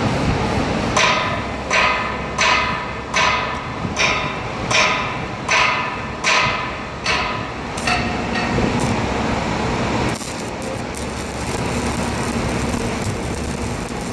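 Hammer striking steel about ten times at an even pace, a little under a second apart, each blow ringing briefly. The blows stop and a steady machine running noise takes over near the end.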